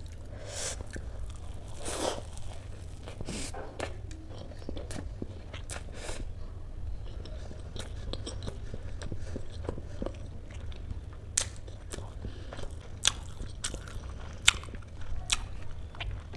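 Close-miked chewing of a mouthful of soft, spongy dhokla, with wet mouth clicks and smacks. The clicks come thicker and sharper in the last few seconds.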